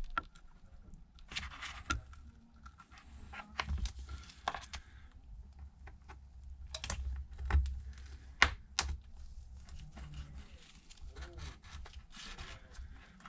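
Pry tools clicking, tapping and scraping against the edge of an iPad Pro as its screen is worked loose from the adhesive, with short scraping bursts and several sharp taps, the loudest about seven and a half and eight and a half seconds in.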